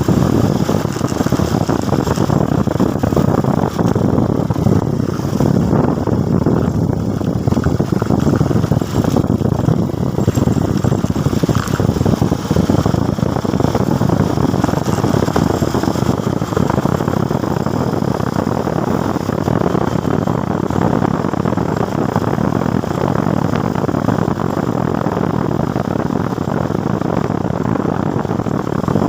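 Motorcycle being ridden at a steady pace, its engine running under a steady rush of wind and road noise, with no sharp changes.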